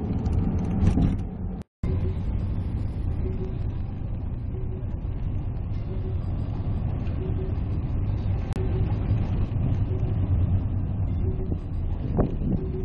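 Steady low rumble of a running motor vehicle, with a faint short beep repeating about every second and a half. The sound drops out completely for a moment about two seconds in.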